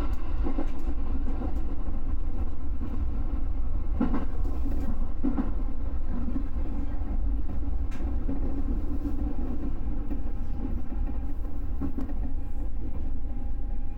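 Electric train running along the line, heard from the front of the train: a steady rumble of wheels on rail with a faint hum and a few sharp clicks.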